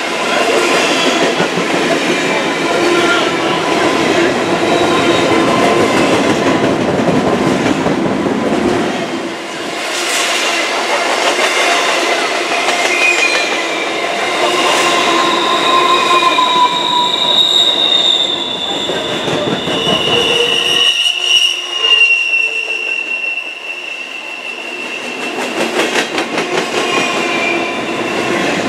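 Freight train of double-stack intermodal well cars rolling past close by, its wheels rumbling and clacking on the rail joints. High, wavering wheel squeal comes and goes through the middle and later part.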